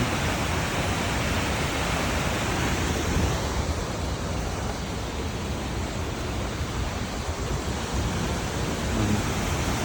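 Waterfall rushing: a steady, even roar of falling water that eases slightly midway through.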